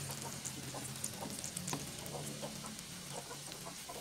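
Butter sizzling and crackling in a frying pan around flattened kepok bananas as they pan-fry, with hens clucking in the background.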